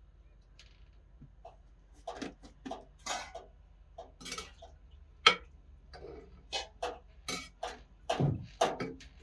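Cookware and utensils being handled: irregular clinks, knocks and short scrapes, with one sharp knock about five seconds in and a quick run of clatter near the end.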